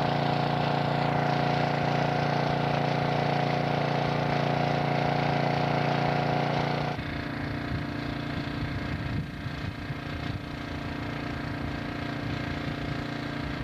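Small portable generator's engine running steadily, a constant hum with a fixed pitch. About halfway through it changes abruptly and becomes quieter and less even.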